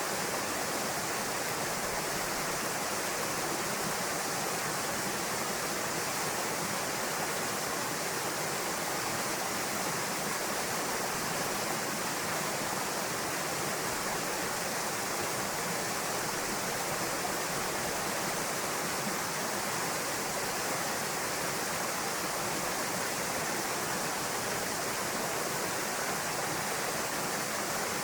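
Small waterfall splashing into a pool: a steady, even rush of falling water with no change throughout.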